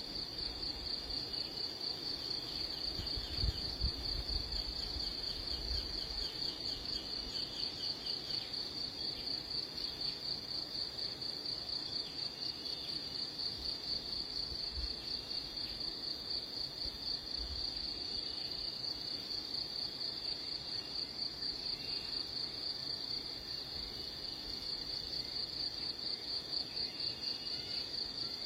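An insect's high, rapidly pulsing trill running steadily. Faint bird chirps come through underneath at times, and there are a few low bumps a few seconds in.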